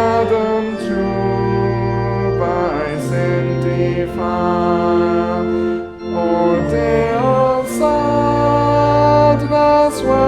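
Church organ accompanying a hymn, with sustained chords moving in steps and voices singing along.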